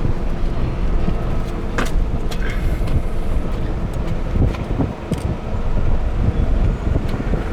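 A vehicle running with a loud, steady low rumble and a steady engine drone, broken by a few short sharp clicks.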